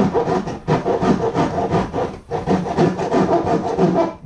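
A hand tool rasping at the control panel in rapid, repeated strokes, as it is cut or filed to make room for a new battery monitor.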